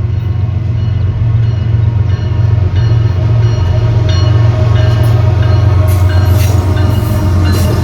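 Diesel train passing close by: a loud, steady deep engine drone with sharp clicks from about five seconds in.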